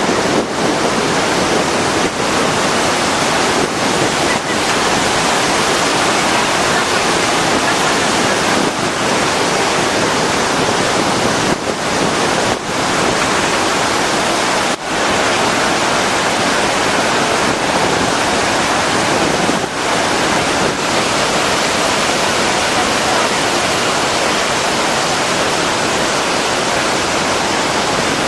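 Loud, steady rush of a large waterfall, with a few brief dips in level.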